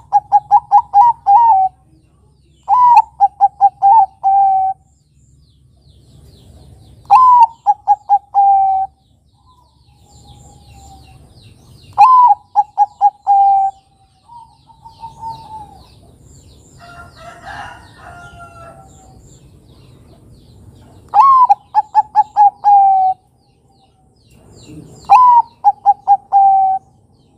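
Zebra dove (Bangkok-type perkutut) cooing: six loud phrases, each a higher opening note followed by a quick run of about five staccato coos that drop slightly in pitch, separated by pauses of a few seconds. Fainter calls of another bird sound in the gaps.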